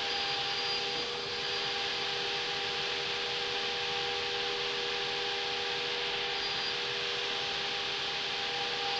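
Power saw ripping plywood, its motor running with a steady whine under the hiss of the cut.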